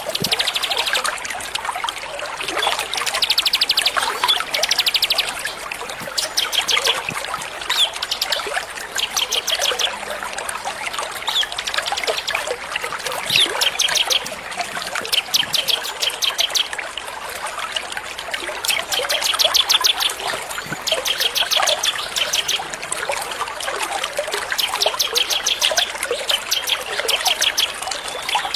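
Small songbirds singing rapid, high trills in short bursts every second or two, over a steady trickle of running water.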